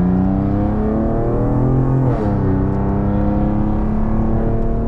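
Infiniti Q50S exhaust, a Speed Culture Studios catback with two Vibrant Super Quiet resonators in place of the Borla muffler, heard from inside the cabin while accelerating. The engine note climbs steadily, drops suddenly about two seconds in as the car shifts up, then climbs again.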